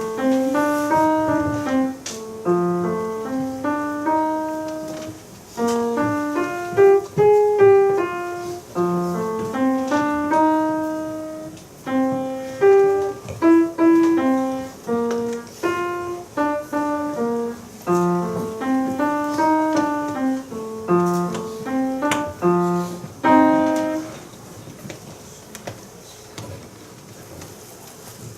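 Solo piano playing a lively melody over chords in separate, clearly struck notes. The playing stops about four seconds before the end.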